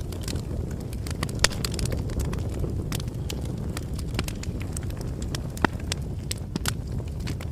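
Campfire burning, with a steady low rumble and irregular sharp crackles and pops, two louder pops about a second and a half in and near the middle.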